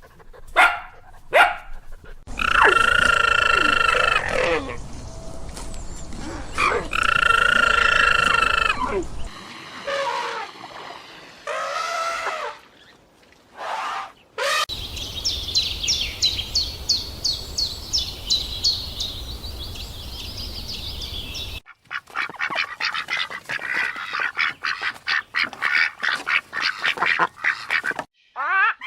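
A sequence of different animal and bird calls, cut one after another. There are a few short calls, then two long pitched calls of about three seconds each, then shorter calls. After that comes a fast, high trill of rapid ticks lasting about seven seconds, and it ends with rapid chattering calls.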